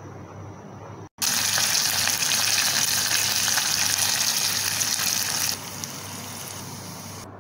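Sliced onions, green chillies and curry leaves sizzling in hot oil in a wok. The loud frying starts abruptly about a second in and drops to a quieter sizzle about four seconds later.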